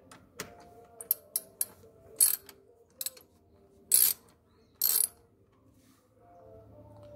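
12 mm wrench working the motorcycle's brake caliper bolts loose: a series of sharp clicks and short bursts, about eight in all, the later ones longer.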